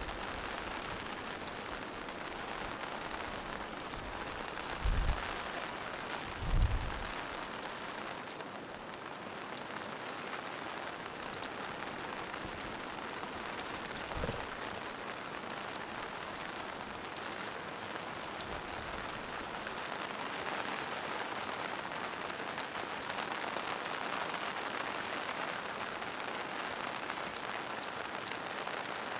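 Steady rain falling through a forest, an even patter of drops on leaves and moss-covered rock. A few brief low thumps cut in, the loudest two about five and six and a half seconds in and a softer one near the middle.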